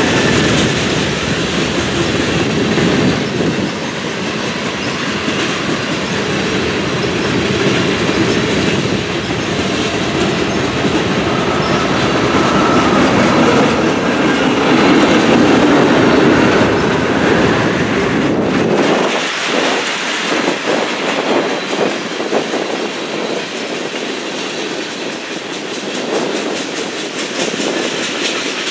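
Freight cars (tank cars and boxcars) rolling past at speed: a steady rumble of steel wheels on rail, with the clickety-clack of wheels over rail joints. About two-thirds of the way through, the deep low rumble drops away and the rapid clicking becomes clearer.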